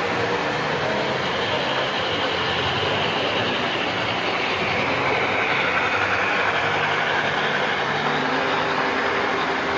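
Model trains running on a layout: a steady rolling clatter with a faint motor whine that slides down in pitch over several seconds.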